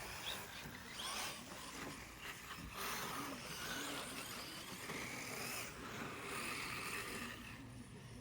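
Radio-controlled electric rally cars running on the track: a mix of motor whine and tyre noise that rises and falls as the cars pass.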